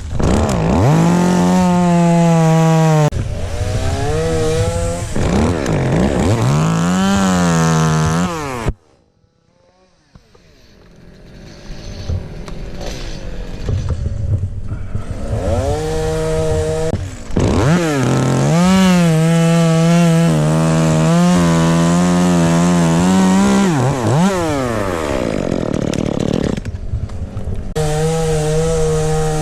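Chainsaw running hard and cutting into ash wood, its pitch sagging and rising again as it works through the cut. About nine seconds in the sound cuts off for roughly a second, then the saw comes back and works on through the rest.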